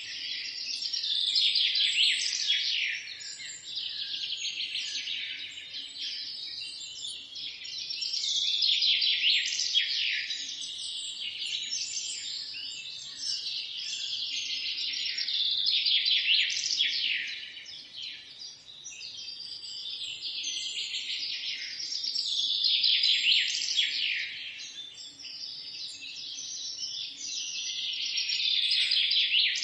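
A chorus of several songbirds singing and chirping at once, dense and continuous, swelling and easing every several seconds.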